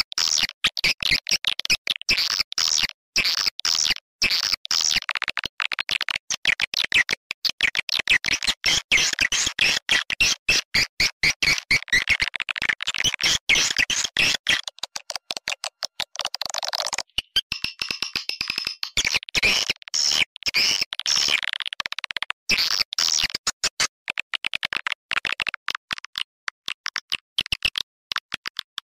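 Swiftlet lure call track: a dense, rapid run of high, sharp chirps and clicking twitters, played to attract swiftlets into a nesting house. The chirping changes character about halfway through, turning thinner and higher.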